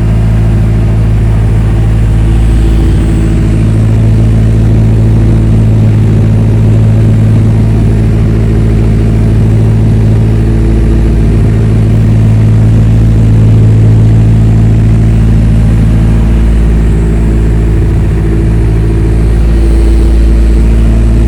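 Turbocharged Honda K24A2 2.4-litre four-cylinder engine idling steadily on an AEM Series 2 base calibration, with slight swells in level.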